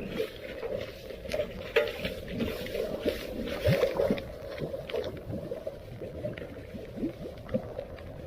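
Floodwater splashing and sloshing in quick, irregular strokes as debris is worked loose by hand at a submerged storm drain.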